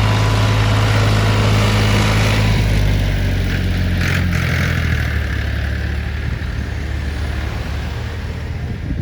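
Large truck engine running with a steady low hum that fades after about three seconds as the truck moves off, with a short hiss about four seconds in.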